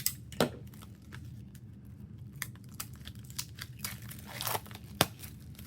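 Paper and plastic rustling and crinkling, with scattered small clicks and a few brief swishes, as album photocards and inclusions are handled and pulled out.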